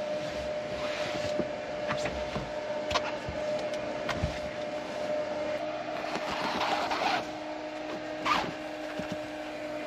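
Steady hum of a small electric motor, with a lower second tone joining about three seconds in. Scattered clicks and a brief rustle of handling sound over it.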